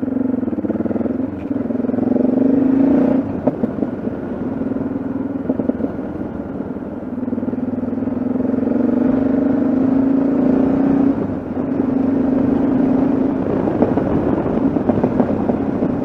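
Yamaha XT660Z Ténéré's single-cylinder engine running under way on the road, a steady engine note that dips briefly three times as the throttle is eased and taken up again.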